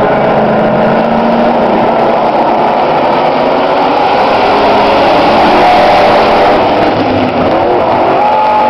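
Several demolition-derby pickup truck engines running together on the track, their engine notes overlapping in a loud steady din.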